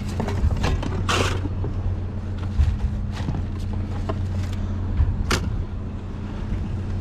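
A vehicle engine idling with a steady low hum, while scrap aluminum clanks and knocks a few times as it is handled and pulled from a dumpster.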